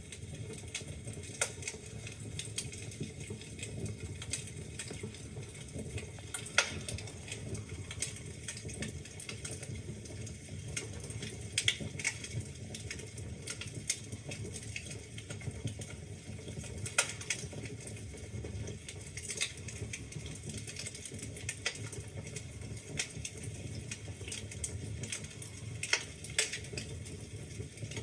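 Wood fire crackling in a fireplace: burning logs snapping and popping irregularly, a few pops louder than the rest, over a steady low rumble of the flames.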